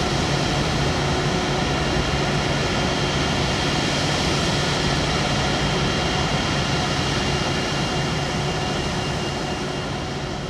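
Jet airliner engines running steadily, a dense noise with several steady whining tones, fading away near the end.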